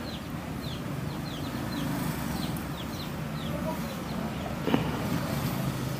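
Birds peeping: short high notes that fall in pitch, two or three a second, thinning out after about three seconds, over a steady low hum. A single click comes near the end.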